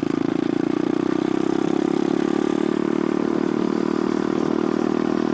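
Pit bike's small single-cylinder engine running at a steady speed while being ridden.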